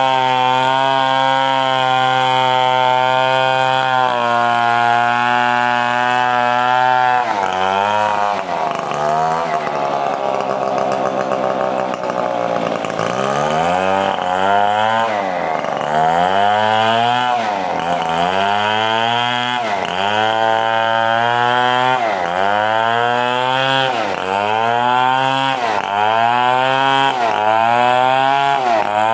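Stihl 070 two-stroke chainsaw running at a steady high speed, then about halfway through revving up and dropping back again and again, roughly every two seconds.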